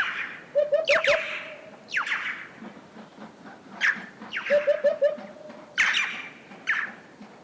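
Central Asian red-billed choughs calling: loud, harsh calls that fall sharply in pitch, repeated about once a second. Under them a hoopoe sings short low hooting phrases, twice.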